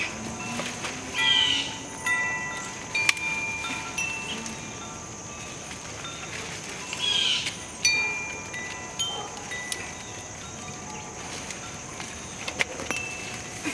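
Wind chimes ringing: clear tones of several different pitches struck at irregular moments and left to ring, over a steady high-pitched tone.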